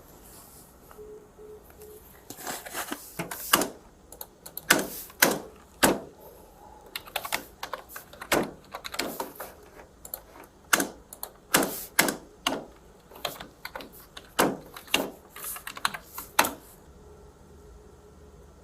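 Typing on a computer keyboard: irregular runs of keystrokes that start about two seconds in and stop near the end.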